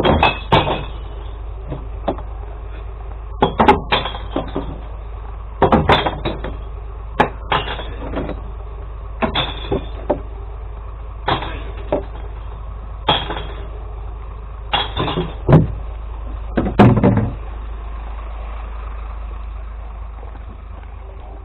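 Recycled glass crashing into a glass collection truck, a loud crash every second or two, over the steady drone of the truck's idling engine. The crashes stop about seventeen seconds in, leaving the engine running.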